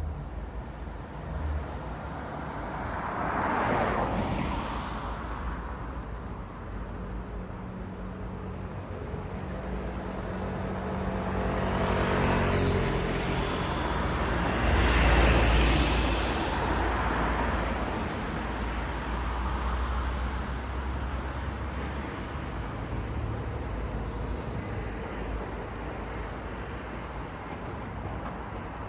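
Road traffic: cars passing one after another over a steady background hum of the street. The loudest pass comes about halfway through.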